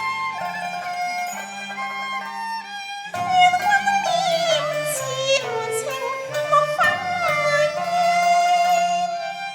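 Cantonese opera music: the traditional ensemble, led by bowed strings, plays for about three seconds. Then a singer comes in on one long, drawn-out melismatic note with wide vibrato that dips and climbs back, over the accompaniment.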